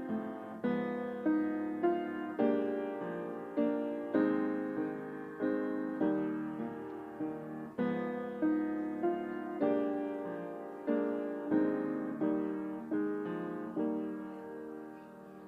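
Piano playing a slow, gentle piece, a chord or note struck about every half second and left to ring, dying away near the end.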